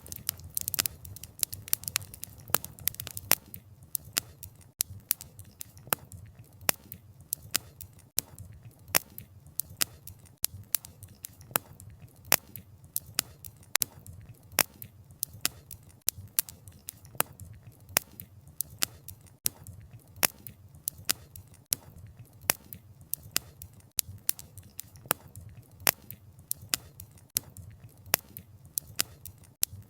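Wood fire burning: frequent sharp crackles and pops of burning wood, several a second and uneven, over a low steady rumble of the flames.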